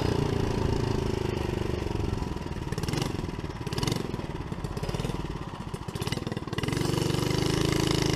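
The Briggs & Stratton engine of a homemade trike mini bike running, its sound dropping and wavering in the middle and growing louder and steadier again near the end.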